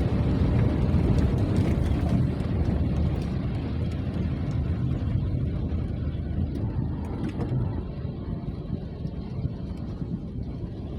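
Rain with wind: a steady low rumbling noise that gradually eases off, with faint scattered ticks of drops.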